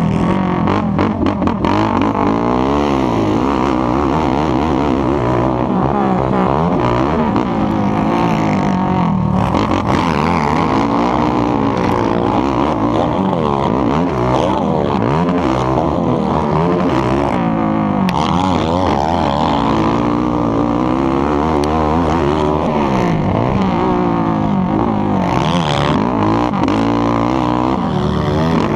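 Racing ATV engines revving hard and falling back over and over as they accelerate, shift and brake around a motocross track, several engines overlapping.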